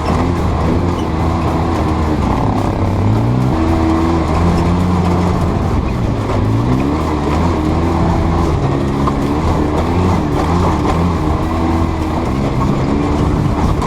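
Off-road vehicle engine revving up and down, its pitch rising and falling repeatedly as it accelerates and backs off.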